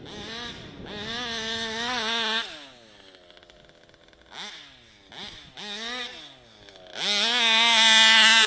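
Alx 71 two-stroke engine in an RC Baja buggy with a tuned torque pipe, revved up hard twice, about a second in and again near the end, with short throttle blips between; the pitch slides back down toward idle after each pull. This is a test run after a rebuild.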